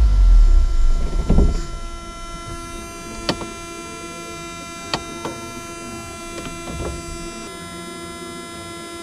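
1983 Honda Civic 1.5L EM1 engine running at a high idle, a sign of the stuck carburetor floats, then stopping about a second and a half in. A steady hum and a few light clicks follow.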